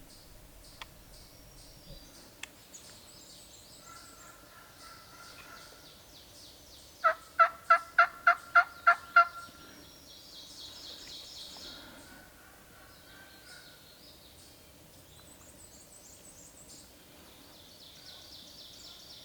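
Wild turkey yelping: a run of about eight loud, evenly spaced yelps lasting about two seconds, a third of the way in. Fainter turkey calls come before and after, and songbirds chirp throughout.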